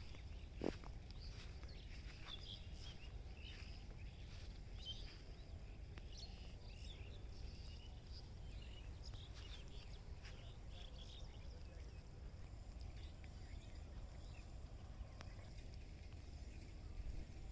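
Faint, irregular chirping of small birds over a steady low rumble, with a single knock about a second in.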